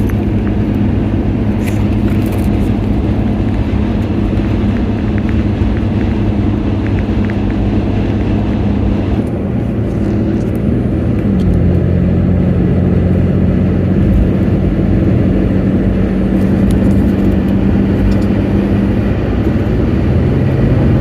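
Motor vehicle engine running steadily with road noise, a low drone whose pitch shifts about halfway through and again near the end.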